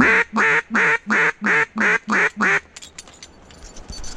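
Mallard-style duck call blown close by: a run of seven loud, evenly spaced quacks, each dropping in pitch, lasting about two and a half seconds. After that only a few faint ticks.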